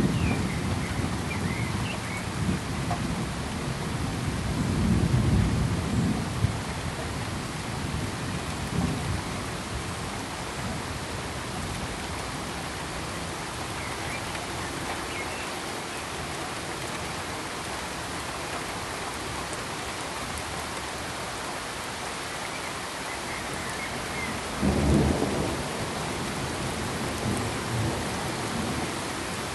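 Steady rain hiss with low rolls of thunder: rumbles near the start and about five seconds in, and a sharper one about 25 seconds in.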